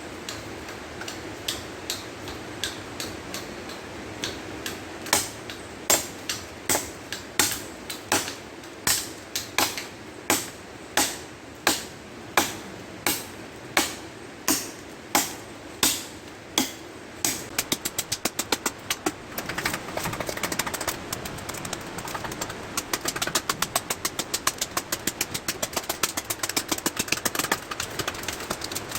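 Repeated sharp knocks of hand-tool blows. They come about one and a half a second for some twelve seconds, then from about two-thirds of the way through turn faster and lighter, about four a second.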